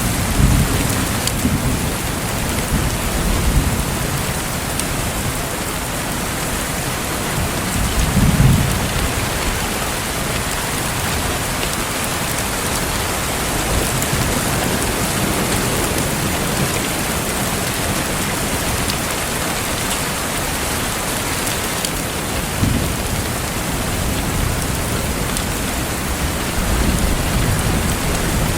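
Steady heavy rain with low rumbles of thunder now and then, the loudest about eight seconds in.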